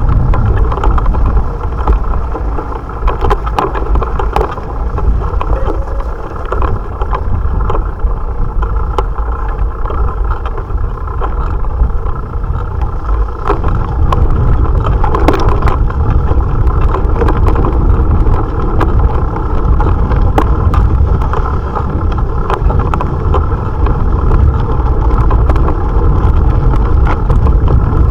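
Wind buffeting an action camera's microphone together with tyre and road rumble from a bicycle being ridden, a steady low rumble with scattered clicks and rattles.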